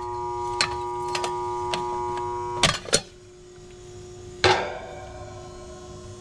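Air-conditioning condensing unit running with a steady electrical hum while its condenser fan stands still, the fan not running. About two and a half seconds in, two sharp clicks come and most of the hum drops away. A single metallic clank rings about four and a half seconds in.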